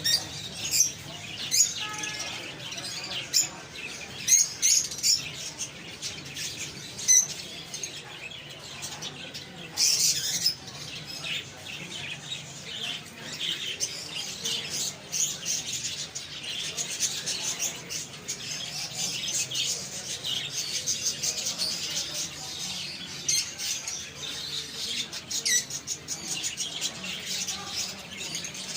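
Many small birds chirping and twittering, short calls overlapping densely with a few louder, sharper chirps standing out.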